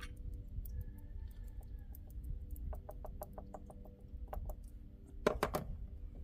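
Chicken clucking: a quick run of clucks about three seconds in, then a louder call near the end, over a steady low hum.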